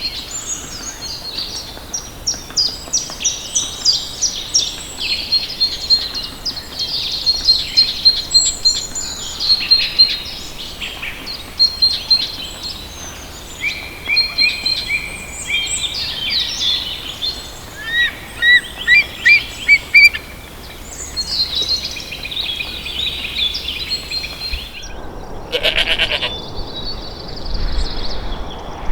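Several songbirds singing at once, overlapping fast trills, chirps and repeated whistled notes. About 25 seconds in, the birdsong stops abruptly and a short, lower-pitched call is heard.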